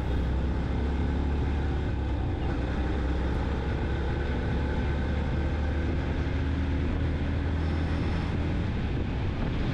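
Yamaha FZ-X motorcycle's single-cylinder engine running steadily at road speed, heard from the rider's position with a low, even rush of wind over the microphone.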